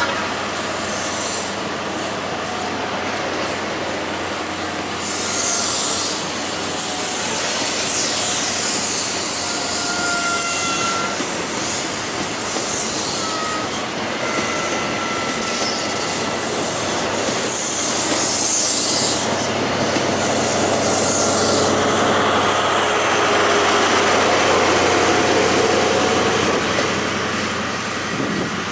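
A train moving along the rails close by, with short, thin squeals from its steel wheels several times through the middle of the sound over a continuous rumble and hiss.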